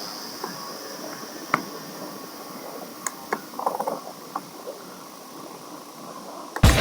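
Riding noise of a road bicycle on a climb: a steady rumble of tyres and air with scattered sharp clicks and ticks. Loud rock music cuts in suddenly near the end.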